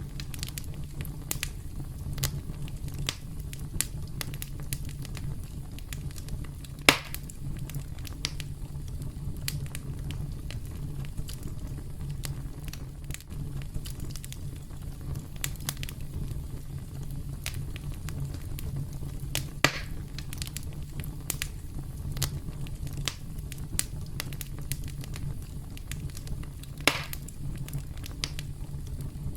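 Wood campfire burning steadily, with a low rumble and frequent sharp crackles. Three louder pops stand out, about 7, 20 and 27 seconds in.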